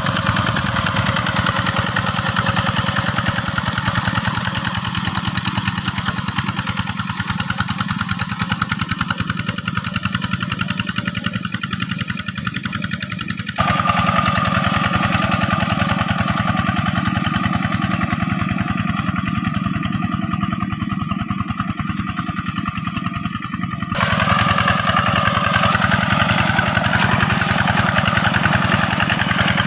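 Diesel engine of a two-wheel hand tractor running steadily with a rapid, even firing beat. The sound changes abruptly twice, about halfway through and again near the end.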